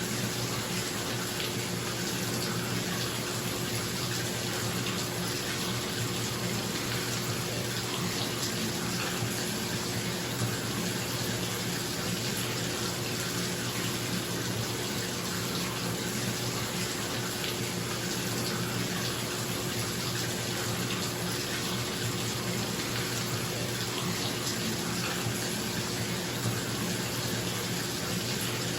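Bathtub tap running full into the tub, a steady rush of water, with a bathroom exhaust fan humming underneath.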